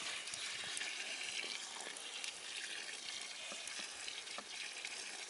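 Water poured from a bottle onto a campfire's hot embers, sizzling and hissing steadily with faint crackles as the fire is put out.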